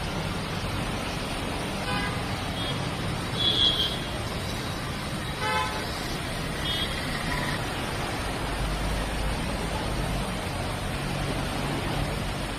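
Street traffic running steadily, with several short vehicle horn toots over it; the loudest is a shrill one a little under four seconds in.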